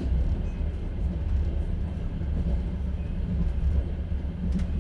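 Inside a moving passenger train carriage: the steady low rumble of the running train, with a sharp knock at the start and another near the end.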